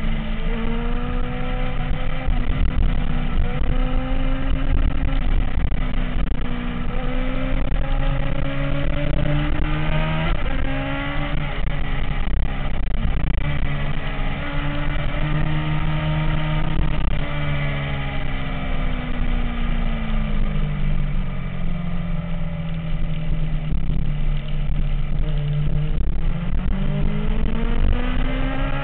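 MV Agusta F4 motorcycle's inline-four engine running, its pitch rising and falling gradually several times as the throttle is opened and eased.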